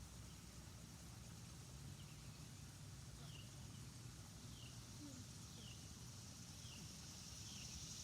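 Faint outdoor quiet: a bird repeats a short falling note about once a second, over a low steady rumble.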